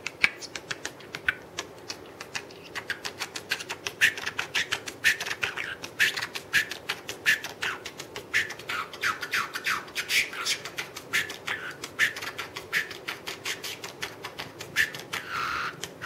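Small parrot making rapid beatbox-like clicks mixed with short chirps, in a quick, uneven rhythm, with a longer held call near the end.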